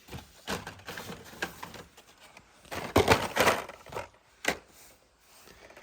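Carded die-cast toy cars being handled: plastic blister packs and cardboard backing cards clicking, tapping and rustling, with the loudest clatter about three seconds in.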